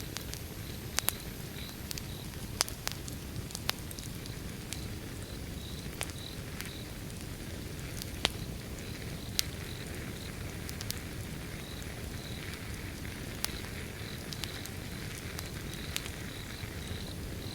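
Wood fire burning, a low steady rumble of flames with sharp crackles and pops scattered irregularly, a few louder pops standing out. Insects chirping in a steady pulsed rhythm behind the fire.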